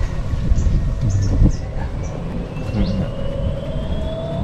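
A vehicle running, with a steady low rumble and a faint whine that climbs slowly in pitch as it gathers speed. A few short high chirps sound over it.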